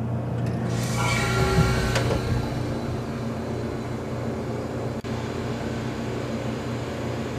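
Sealed compressor of an antique GE CJ-1-C16 refrigerator starting up about a second in, then running with a steady hum as it pulls the low side down on a fresh R152a charge. One short click about five seconds in.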